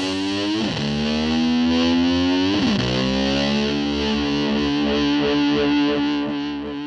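Heavily distorted electric guitar in a rock track: long held notes that slide up in pitch twice, then fade out near the end.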